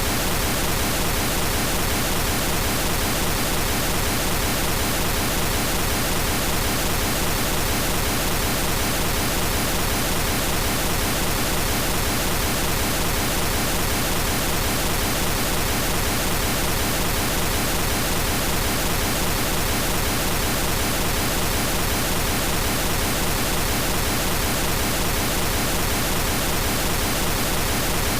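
Periodic pink noise test signal for the left channel: a steady, even hiss that does not change.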